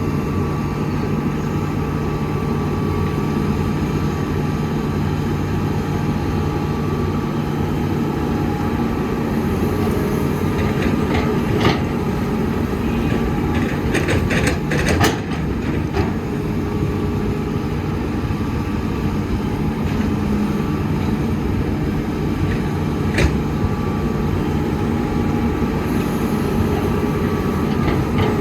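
Heavy diesel engine of a hydraulic excavator running steadily at work. A few sharp metallic clanks stand out, one about twelve seconds in, a cluster a few seconds later and one more near the end.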